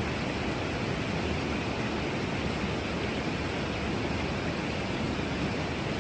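Heavy rain falling, a steady even hiss with no separate drops or other events standing out.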